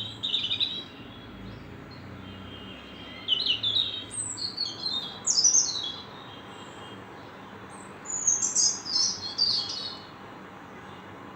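Songbird chirping in three bouts of quick, high twittering notes, one at the start, one a few seconds in and one near the end.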